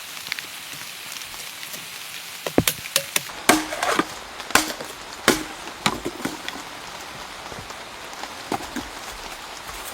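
A run of sharp knocks, the loudest coming about once a second from a few seconds in, over a steady hiss.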